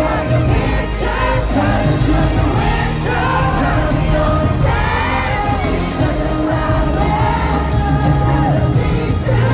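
Live pop concert music through a stadium sound system: singing over a heavy bass, with some yelling from the crowd.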